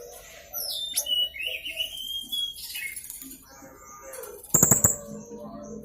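Serindit (blue-crowned hanging parrot) giving high, shrill chirps and a falling whistle, followed about four and a half seconds in by a short, loud cluster of sharp clicks.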